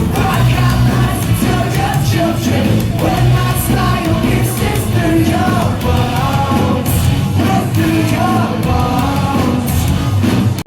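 Live rock band playing loudly at a concert, with sung and partly shouted vocals over heavy guitars and drums. The sound cuts off abruptly at the very end.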